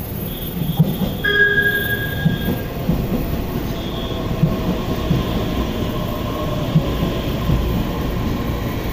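EMU3000 electric multiple unit rolling into a station, its wheels clacking over rail joints in a repeating beat. Brief high squealing tones come in about a second in.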